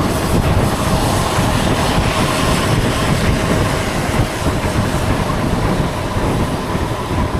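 Loud, steady rush of wind and road noise from riding through rain, with a faint steady whine underneath.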